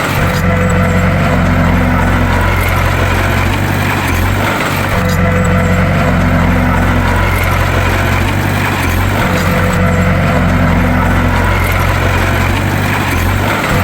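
Heavy engine running steadily under a deep, even hum. The sound goes in a repeating cycle about every four and a half seconds, with a brief dip at each turn.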